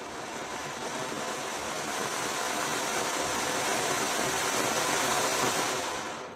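Deen Meeran 5 Color Mini Fountain ground firework spraying sparks with a steady, rushing hiss that slowly grows louder, then fades out quickly near the end as the fountain burns out.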